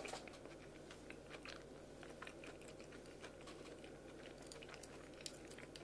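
Faint chewing of crunchy food: small, irregular crisp clicks and crunches, very quiet.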